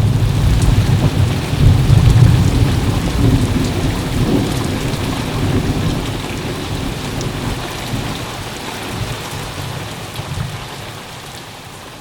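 Steady rain with rolling thunder, the low rumble strongest in the first few seconds; the whole sound gradually fades out.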